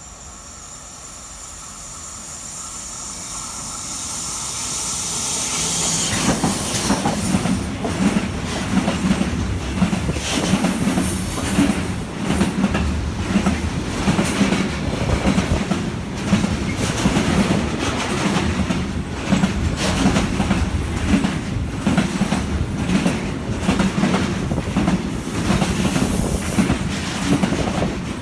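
A train approaching and passing close by on the rails: a high hiss and whine build for several seconds as it nears, then wheels clatter over rail joints in a steady, fast rhythm as the cars go by.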